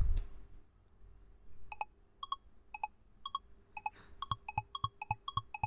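Quiz countdown timer sound effect: short pitched ticks, about two a second at first, speeding up to about four a second for the last seconds as time runs out.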